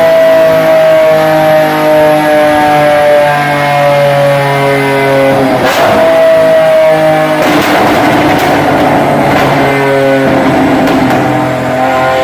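Lamborghini Aventador LP700's V12 through an Fi exhaust, held at high revs with its pitch slowly sagging. Past the middle it breaks into crackling exhaust pops, then revs up again near the end. Rock music with guitar plays underneath.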